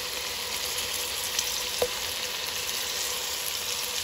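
Prawns and green chillies sizzling steadily in hot oil in a pan, with a couple of light clicks, one just under two seconds in.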